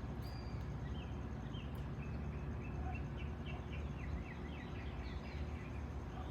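A small songbird singing a run of quick, short falling chirps for about three seconds, over a steady low rumble.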